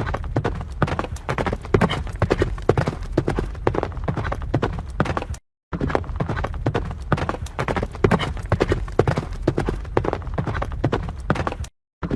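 Horse hooves clip-clopping in a dense, fast run of hoofbeats, breaking off for a moment about halfway through and starting again.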